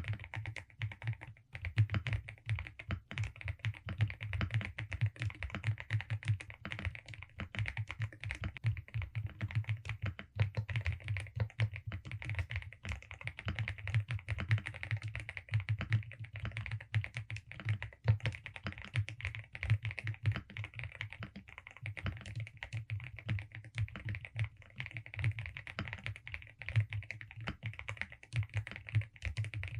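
Continuous fast typing on a Velocifire RX870 mechanical keyboard with DSA keycaps: a dense, irregular run of key clicks and low key-bottoming thocks.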